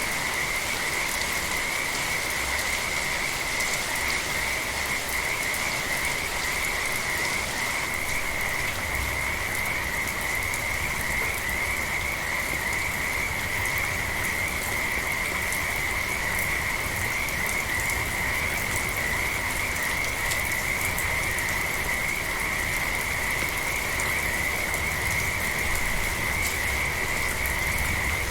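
A chorus of frogs calling without a break at one steady pitch, over the even hiss of steady rain.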